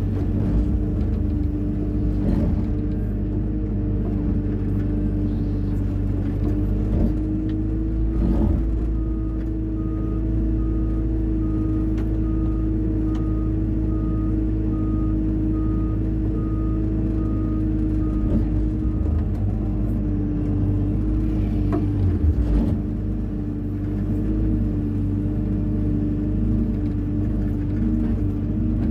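Hyundai 140 wheeled excavator's diesel engine running steadily while it works, with a low rumble. In the middle stretch a short beep repeats a little faster than once a second for about ten seconds, and a few brief knocks stand out.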